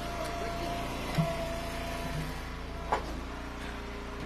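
Engine of a wood splitter running steadily, with two short knocks, one about a second in and a sharper one near three seconds in.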